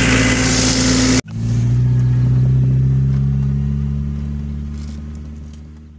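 For about a second, an engine runs outdoors with loud hiss and noise. After a sudden cut, a car's engine drones steadily, heard from inside the cabin on a dirt road, then fades out over the last few seconds.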